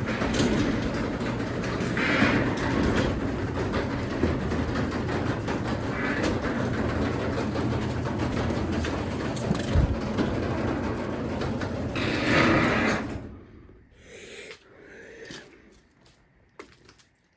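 Craftsman 3/4 hp belt-drive garage door opener running as the door travels open: a steady motor hum and rumble with a few louder creaking swells along the way. It stops abruptly about 13 seconds in, leaving only a few faint knocks.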